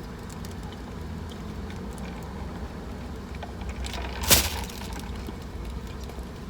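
Steady low hum of a car cabin, with one short, sharp noise about four seconds in.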